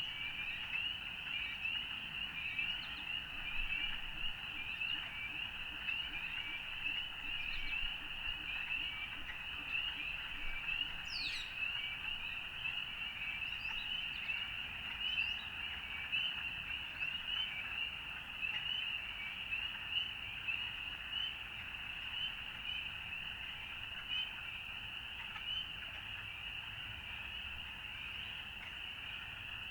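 A dense chorus of frogs calling, a steady mass of many short high notes overlapping without a break. One brief higher call sweeps down about eleven seconds in.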